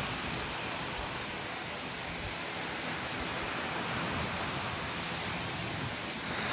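Waves breaking on a sandy beach: a steady, even rushing surf noise.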